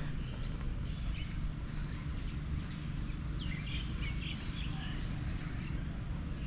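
Small birds chirping and twittering in short bursts, most busily in the middle of the stretch, over a steady low rumble.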